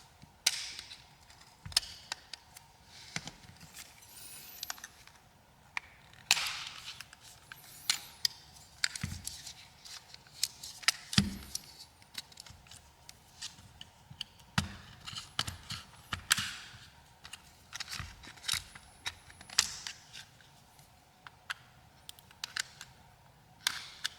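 Plastic pry tool working a smartphone's midframe loose: irregular sharp clicks as the frame's clips unclick, with occasional short scrapes of the tool along the frame edge.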